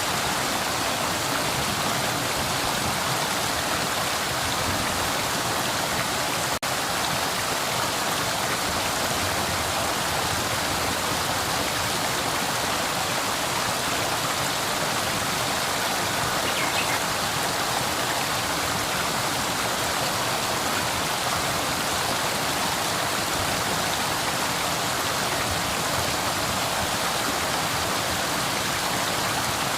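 River water flowing and rushing over rocks in a steady, even wash of sound.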